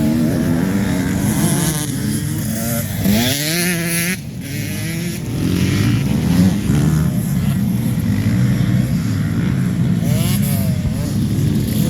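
Motocross bike engines running and revving, with a clear rise in revs about three seconds in and another near the end.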